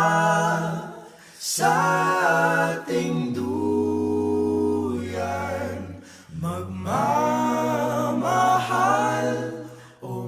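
Background music: a cappella vocal harmony, with sung phrases over held low voices and short breaks between phrases.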